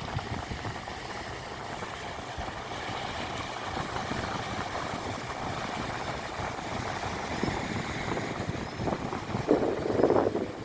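Wind buffeting the microphone: a steady rushing rumble that slowly grows, with stronger gusts near the end.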